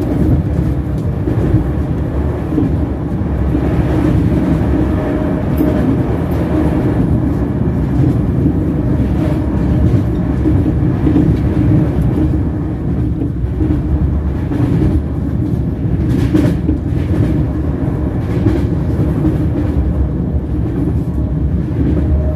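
Train wheels rolling on the rails: a steady, loud low rumble with a constant hum running through it. A few short sharp clicks come through the rumble, the clearest about 16 seconds in.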